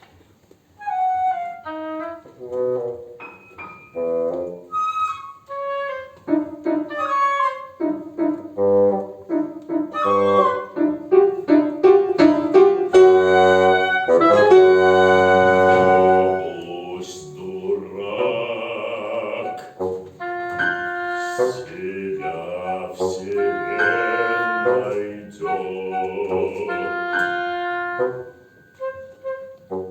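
Live chamber ensemble of flute, oboe, bassoon and piano playing an instrumental passage. Quick runs of short notes build to a loud held chord about halfway through, followed by repeated short chords.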